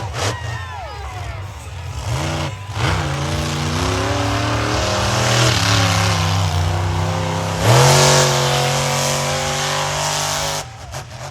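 Monster truck engine revving hard, its pitch climbing and dropping with the throttle, with a sharp jump in revs about eight seconds in. The engine sound drops away suddenly near the end.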